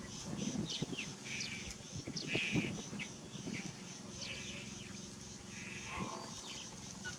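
Monkeys calling: a string of short, high, falling chirps and squeaks, with a few lower calls among them.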